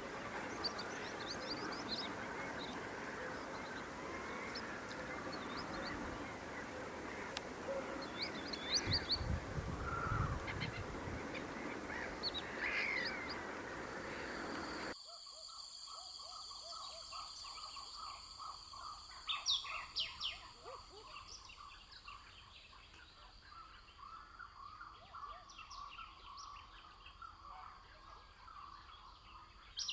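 Wild birds calling and chirping outdoors in short repeated phrases over a steady background hiss. About halfway through the background changes abruptly to a quieter one with a thin, steady high tone, and the bird chirps continue.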